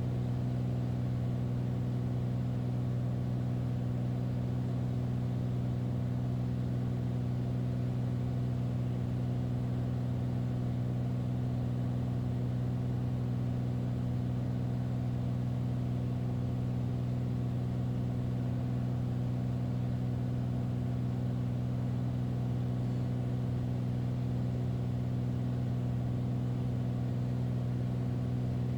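Beechcraft Bonanza's piston engine and propeller droning steadily in flight, heard from inside the cockpit at a constant, even power setting.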